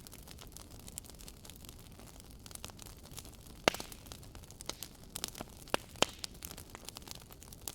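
Wood campfire crackling: a faint steady hiss with irregular sharp pops and snaps, the loudest pop about halfway through and two more strong ones shortly after.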